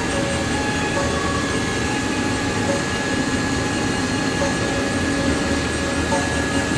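Combine harvester running steadily while harvesting corn: an even mechanical drone with a constant high whine over it.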